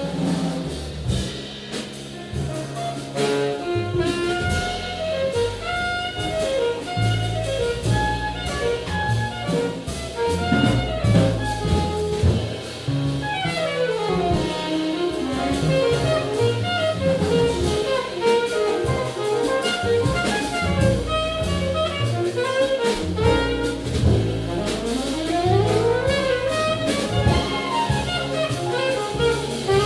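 Small jazz group playing live: a saxophone lead line over bass and drum kit with cymbals. The lead plays a long falling run about halfway through and a rising run near the end.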